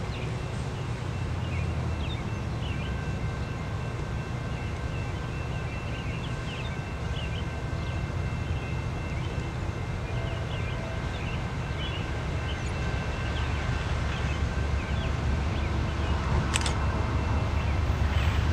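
Steady low rumble of a train that grows louder toward the end, with short bird chirps over it and a sharp click near the end.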